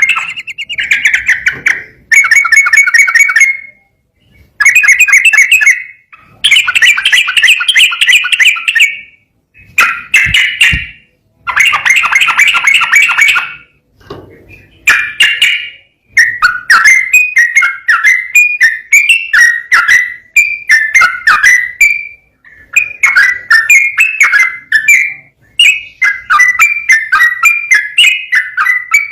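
Yellow-vented bulbul (trucukan) singing: phrases of rapid notes, each one to two seconds long with short gaps between them, becoming an almost unbroken run of fast chattering notes about halfway through.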